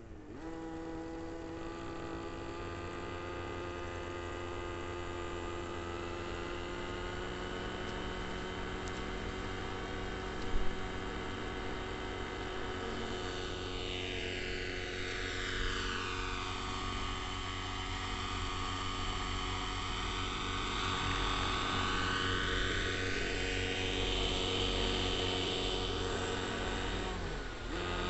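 Neo Caliber 50 RC helicopter's glow-fuel engine and rotors running steadily in flight. From about halfway, a whooshing phasing sweeps down in pitch and then back up as the helicopter's height or distance changes. A brief sharp click comes about ten seconds in.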